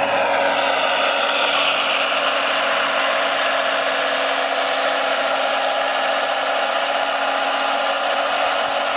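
Steady whir of a radio-controlled construction model's electric motor and gearing, with a few tones falling in pitch in the first second or two.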